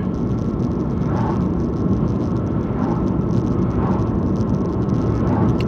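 Steady engine and road noise of a car driving, a low rumble heard from inside the cabin.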